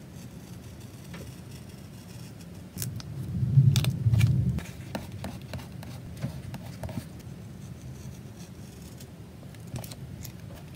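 Hands working with paper and stationery on a desk while journaling: small clicks and light scrapes, with a louder stretch of rubbing and knocking about three to four and a half seconds in.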